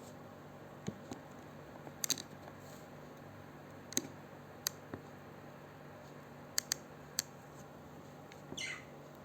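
Pet parrot making scattered sharp clicks and ticks, with one short squeak falling steeply in pitch near the end.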